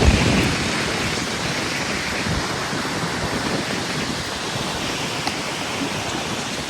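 Wind blowing on the microphone: a steady rushing noise, with low buffeting thumps at the start and now and then after.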